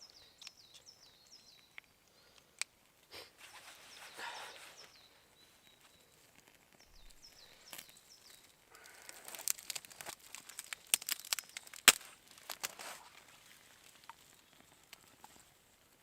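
Fire steel scraped to throw sparks onto pine tinder, then a dense run of crackles and snaps as the kindling catches, busiest in the middle seconds. Small birds chirp near the start.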